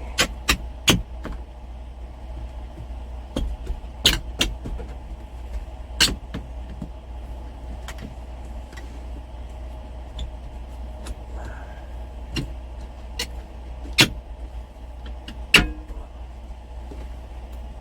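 Scattered sharp clicks and knocks from hand work on hardware, parts and tools being handled and set down, irregularly spaced. A steady low hum runs underneath.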